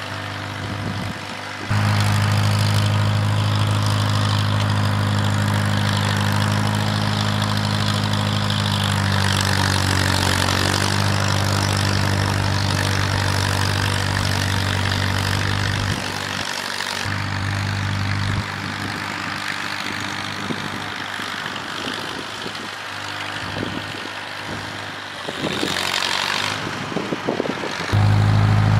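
A vehicle engine running steadily with an even hum; the sound shifts abruptly in loudness and tone a few times.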